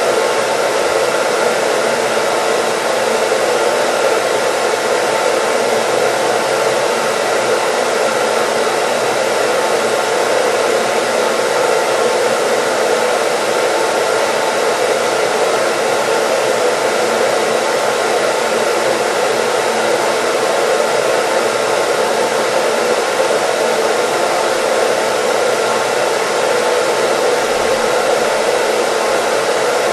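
Hair dryer running continuously: a steady, even blowing rush with a faint motor hum and no change in speed.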